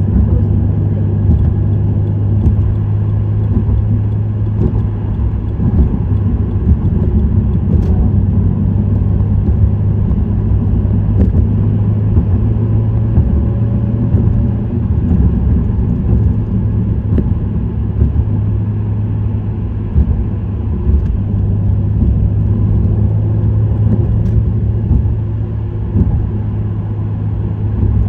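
Subaru WRX STI's turbocharged EJ20 flat-four with an STI Performance muffler cruising at a steady speed: an even low engine and exhaust drone over tyre and road noise, with no revving.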